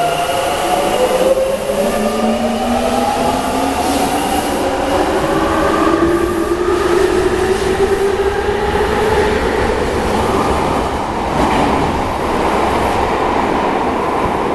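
Tobu 20050 series electric multiple unit pulling out of an underground station: its VVVF inverter traction motors whine in several tones that climb steadily in pitch as the train accelerates, over loud rumbling wheels and rails. The whine levels off after about nine seconds as the train runs on at speed.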